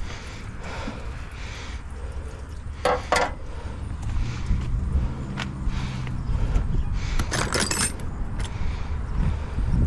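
Metal clinking and jingling twice, about three seconds in and again around seven and a half seconds in, over a steady low rumble.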